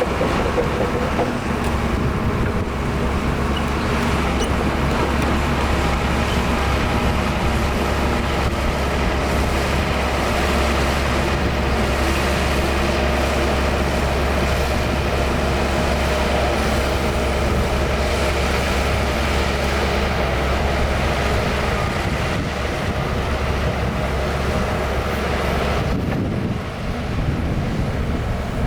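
Heavy diesel engine of earthmoving machinery running steadily, a deep drone with a strong low hum. Near the end the low hum drops away.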